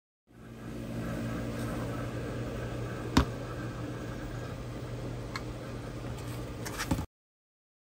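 Steady low hum of room sound with one sharp click about three seconds in and a few lighter clicks near the end; it fades in at the start and cuts off abruptly.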